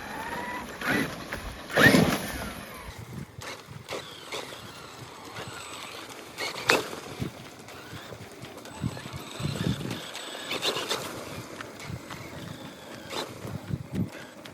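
Traxxas X-Maxx electric RC monster truck driving over rough ground: a motor whine that rises and falls with the throttle, tyres crunching, and sharp thumps as the truck hits and lands, the loudest about two seconds in and others near seven and eleven seconds.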